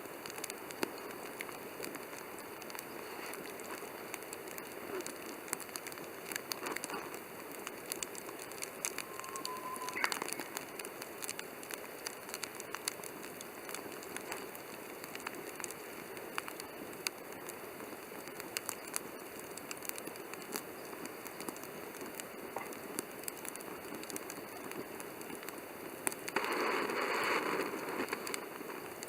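Wood campfire crackling, with frequent sharp pops over a steady hiss. A short rising whistle comes about a third of the way in, and a louder rushing noise lasts about two seconds near the end.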